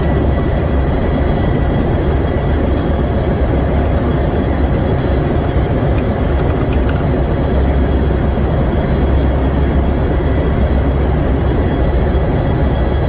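Large diesel generator engine running steadily, a loud, even low rumble with a few faint ticks over it.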